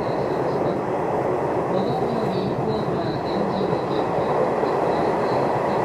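Nishitetsu commuter train running along the line, heard inside the carriage: a steady rumble of wheels on rail with a faint high whine above it.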